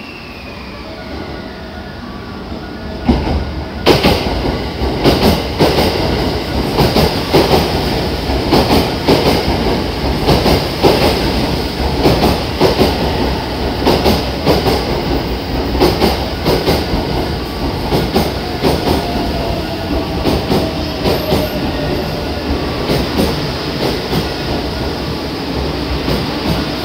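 JR West 683 series limited express electric train pulling in along the platform and slowing: wheels clacking irregularly over rail joints and points. It becomes loud about four seconds in, and a faint falling whine comes in as it slows.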